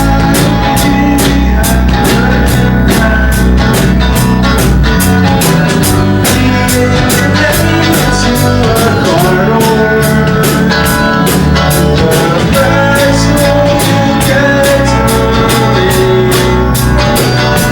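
Live rock band playing loudly: electric guitars over a drum kit keeping a steady beat.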